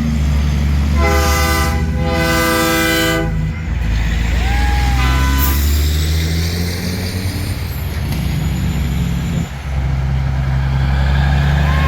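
Semi truck diesel engines running in a steady low drone. A truck air horn sounds two loud blasts about a second in, the second one longer.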